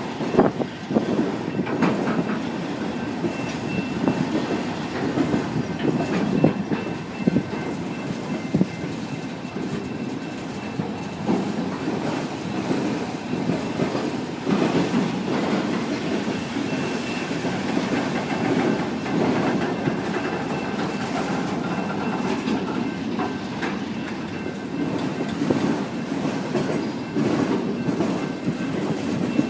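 Freight train of autorack cars rolling past on a curve: a steady rumble with wheels clicking irregularly over the rail joints, and a faint high squeal from the wheel flanges.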